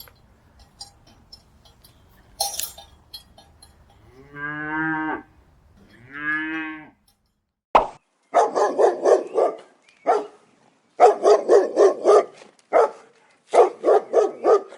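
A cow mooing twice in long calls. About halfway through, a dog starts barking in quick runs of barks.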